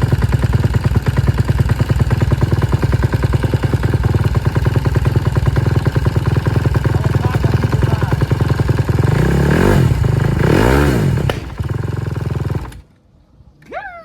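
Dirt bike engine running cold in freezing weather, idling with a rapid pulse, revved twice about ten seconds in, then stalling abruptly near the end.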